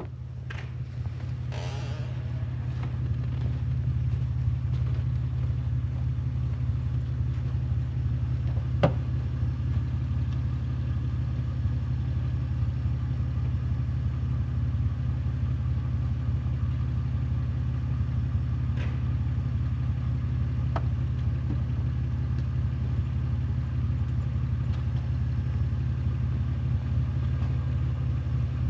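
Vehicle engine running steadily at a low idle-like hum, with a sharp knock at the start and another about nine seconds in.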